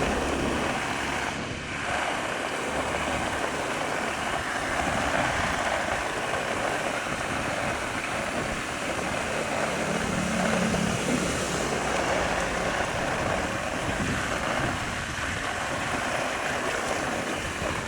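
A steady rush of water, an even hiss-like flow with no breaks.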